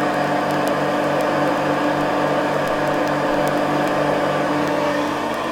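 A 1974 Hoover Custom Convertible upright vacuum cleaner running steadily, its motor giving a constant hum with a steady whine over it.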